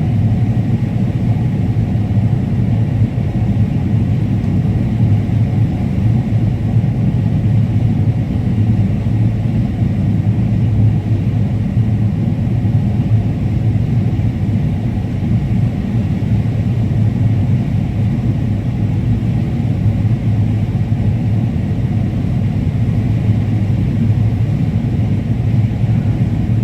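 Combine harvester running steadily while cutting corn: a constant low engine and machine drone.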